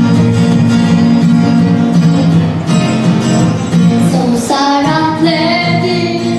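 Music with a young girl singing: an instrumental accompaniment plays, and her voice comes in about five seconds in.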